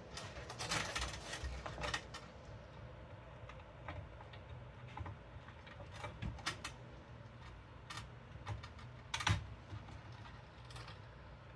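Cables and small parts being handled inside a computer case: a stretch of rustling and scraping in the first two seconds, then scattered light clicks and taps, the loudest about nine seconds in.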